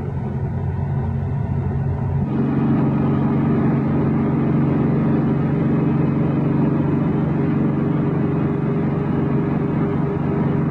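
Split-window VW Beetle's air-cooled flat-four engine running at a steady pace under road noise, heard from inside the cabin. About two seconds in the engine sound becomes louder and fuller, then holds a steady pitch.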